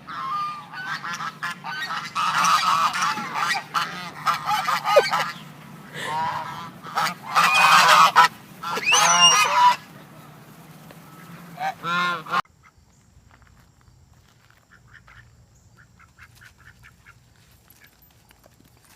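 Birds giving loud, honking calls over one another, hungry birds calling, for about twelve seconds; the calling then cuts off suddenly, leaving only faint light clicks.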